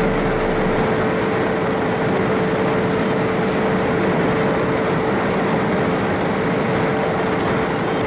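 Steady road and wind noise of the 2017 Seat Leon ST Cupra 300 4Drive driving at an even speed, with a constant whine running through it.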